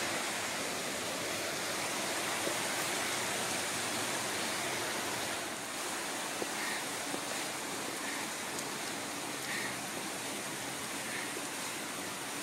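Steady rushing of flowing water, like a creek. In the second half a few faint short high notes and small ticks sound over it.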